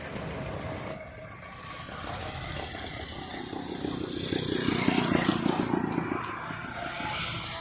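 Vintage car driving past: its engine grows louder as it approaches, is loudest about five seconds in, then fades away.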